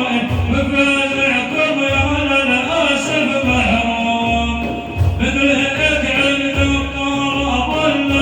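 Male voice singing an Arabic madih, a devotional praise song for the Prophet Muhammad, in long held melodic lines over a steady low rhythmic beat.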